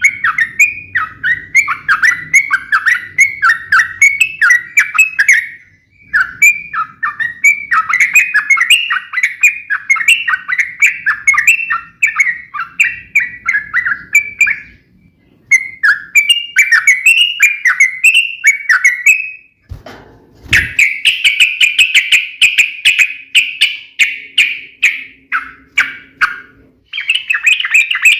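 Yellow-vented bulbul (trucukan) singing in fast runs of sharp, chattering notes, a few notes a second, in stretches of several seconds broken by short pauses. There is a brief low thump about two-thirds of the way through.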